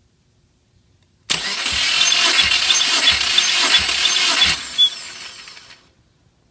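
Starter motor cranking a Subaru EJ205 turbocharged flat-four for about three seconds without it catching, with a low pulse roughly every two-thirds of a second as the cylinders come up on compression, as in a compression test.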